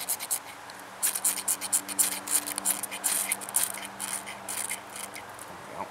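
Rapid repeated scraping strokes, about five a second, as tinder is scraped for fire lighting.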